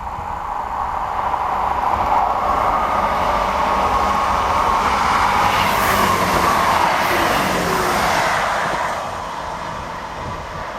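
A train passing through the station, growing louder over the first two seconds, staying loud, then falling away about nine seconds in.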